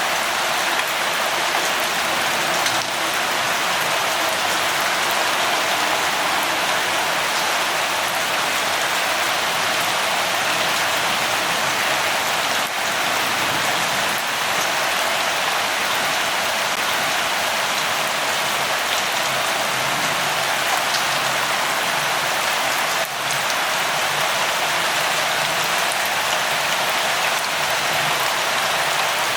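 Steady rain falling, an even hiss of drops with a few faint separate drop ticks here and there.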